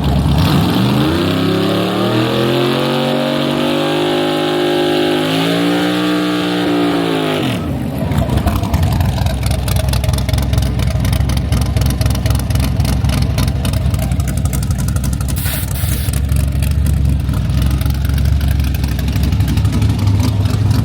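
A car engine revving, its pitch climbing steadily for about seven seconds before dropping off, followed by a loud, steady low engine rumble.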